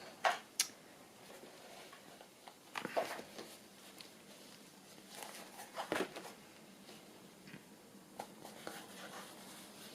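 Handling of paper and fabric craft pieces: soft rustling with a few light taps and clicks as the pieces are picked up and turned over.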